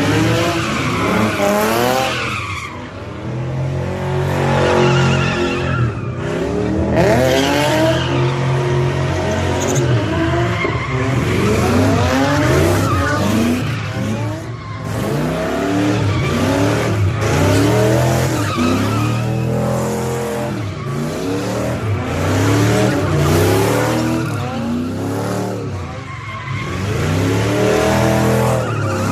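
A car engine revving up and falling back over and over, about once every second or two, with tires squealing and skidding as the car spins donuts.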